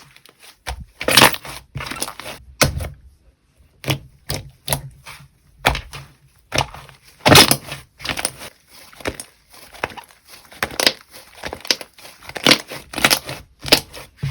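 Slime being squeezed and pressed by hand, giving a run of irregular pops, clicks and crackles, loudest about a second in and again about halfway through.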